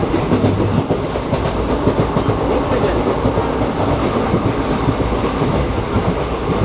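ICF passenger coach running at speed: a steady rumble and rattle of wheels on rail, with a few sharp clicks over rail joints about a second in, heard from the coach's open doorway.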